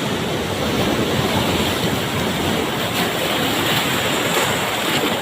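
Ocean surf: a wave rushing in, a steady wash of water noise that swells about a second in and eases near the end.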